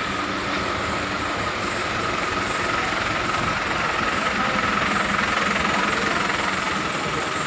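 Truck running on the road: a steady engine drone under even road noise.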